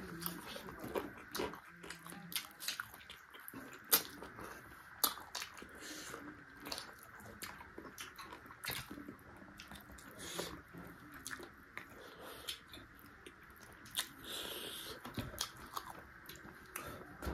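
Close-up eating of chicken feet: irregular wet clicks, crunches and smacks of biting and chewing, with a few sharper cracks around four and five seconds in.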